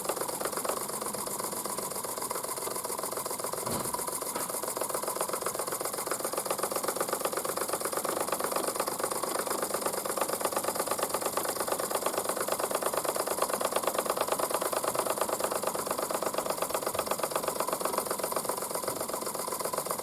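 Mamod SP8 model steam beam engine running under steam: a rapid, even mechanical clatter with a steady hiss, growing a little louder after about eight seconds.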